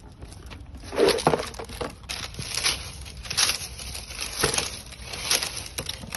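Leaves and undergrowth rustling and crunching in a series of short, irregular bursts, the loudest about a second in.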